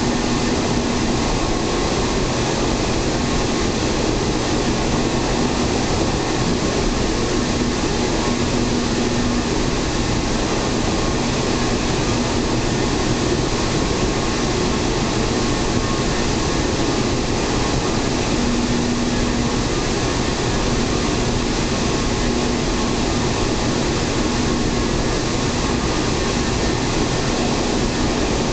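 Steady rumble of a local train running on the rails, heard from inside the passenger car, with a low hum that fades in and out.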